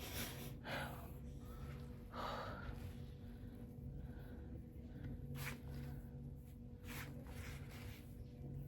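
A woman's breaths, sighs and sniffs now and then, over a steady low hum.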